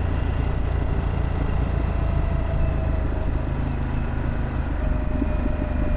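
2024 Harley-Davidson Pan America's Revolution Max 1250 V-twin running through a Vance & Hines exhaust, a steady low rumble.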